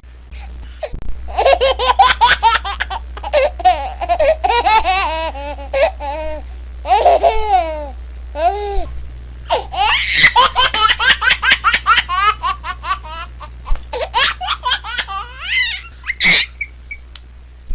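A baby laughing, in rapid runs of giggles with breathy gasps and a few high squeals between bursts.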